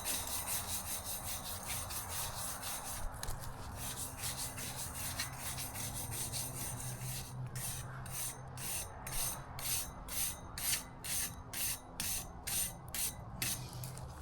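Wire brush scrubbing a campfire grill grate, a steady scraping that turns into quick back-and-forth strokes, about two or three a second, over the second half.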